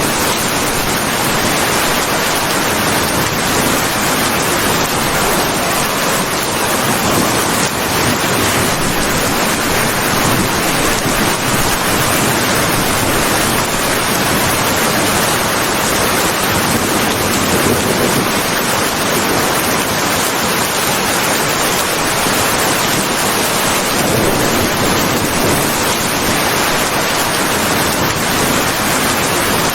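Steady heavy rain, a dense, even hiss without thunder.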